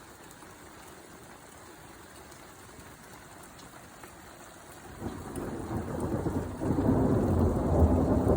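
Steady hiss of rain, then about five seconds in a long low rumble of thunder builds and grows louder, still rolling at the end.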